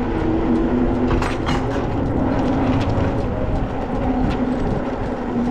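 Riding noise of a 750-watt fat-tyre electric bike on rough ground: wind on the microphone and tyre rumble, with a steady motor hum and scattered small clicks.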